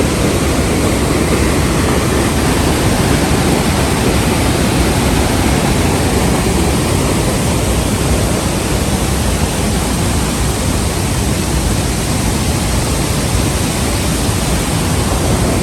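Waterfall: the steady, loud rush of falling water close by, an even noise with no breaks.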